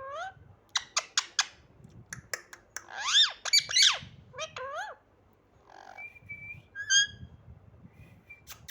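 Pet parrot squawking and chirping in a string of short calls that bend up and down in pitch, with a few sharp clicks about a second in. The loudest calls come about three to four seconds in, followed by a short, level whistle and another call.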